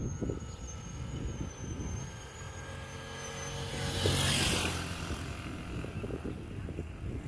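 A motor vehicle's engine comes up and passes close by, loudest about four seconds in, then fades. Underneath it runs a low, uneven rumble.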